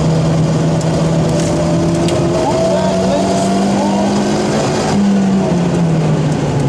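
Rally car engine heard from inside the cockpit, running hard at a steady high pitch. The revs climb about two and a half seconds in, then fall away in the last second or so.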